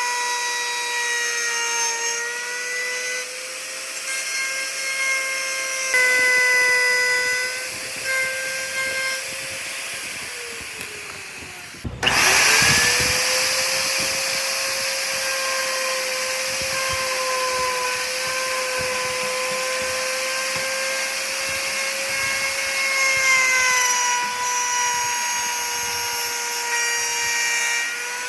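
Electric power tool running with a steady motor whine. A little before halfway it slows and its pitch falls, stops for a moment, then starts again suddenly and runs steady at full speed.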